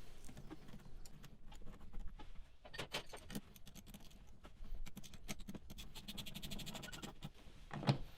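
Runs of light clicking and scraping from a hand tool as a 10 mm Jubilee hose clip is tightened, with a few louder knocks against the air filter housing about three seconds in and near the end.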